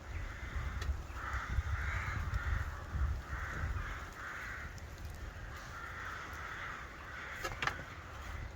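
A crow cawing repeatedly, a run of harsh calls about half a second each, over a low rumble of wind or handling on the microphone. A couple of sharp clicks come near the end.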